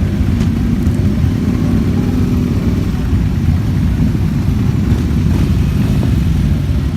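Motorcycle engines running in a low, steady rumble.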